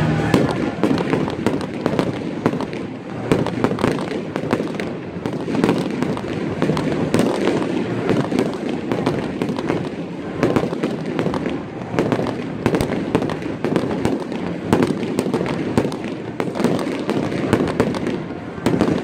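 Aerial fireworks shells bursting in a dense barrage, many sharp bangs and cracks in quick succession.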